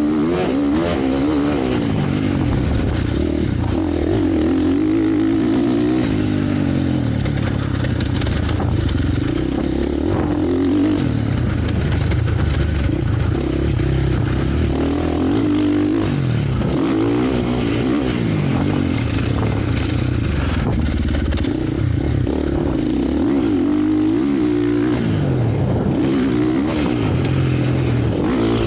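Motocross bike engines revving up and easing off over and over, the pitch rising and falling every few seconds.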